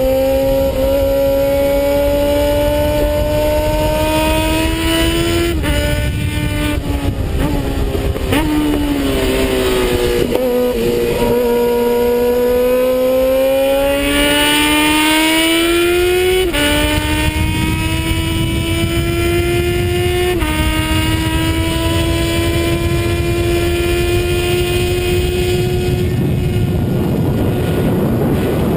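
Suzuki Bandit 650 S inline-four engine heard from on the bike under hard riding. The revs climb and fall back at each upshift. In the middle stretch they fall and waver as the bike slows for a corner. They then climb again through two more upshifts, with a rushing wind noise growing near the end.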